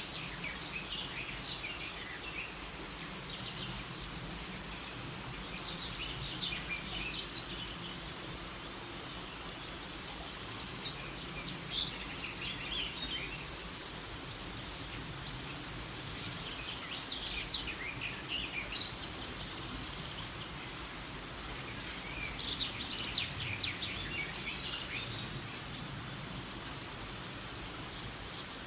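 Nature ambience: small birds chirping in short clusters every few seconds over a steady hiss, with a high, buzzy insect trill that comes back about every five to six seconds.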